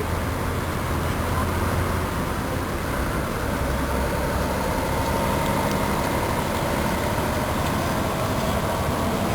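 Steady vehicle noise: an engine running with a constant low rumble.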